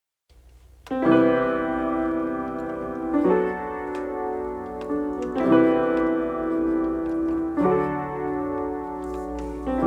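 Acoustic piano playing slow, sustained chords, a new chord struck about every two seconds, four in all, over a faint low drone.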